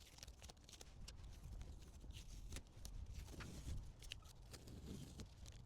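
Faint scattered clicks and light knocks from a steel yacht support being handled and taken down, over a low rumble.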